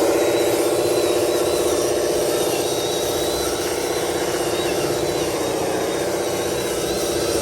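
Heavy diesel truck engine running hard under load at high revs, its pitch holding steady with a short dip a little over five seconds in, and a thin high whine over it.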